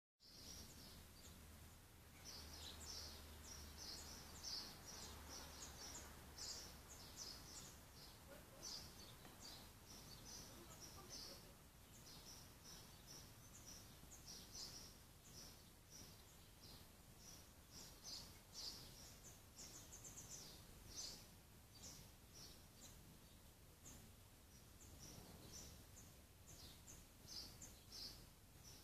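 Faint birdsong: small birds singing many short, high chirps over a soft background hiss.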